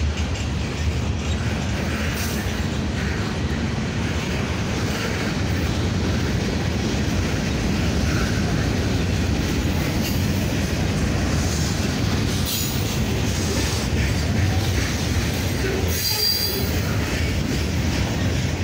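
Freight train's boxcars rolling past on the rails, a steady rumble of wheels and cars. A short, high-pitched wheel squeal rises out of it near the end.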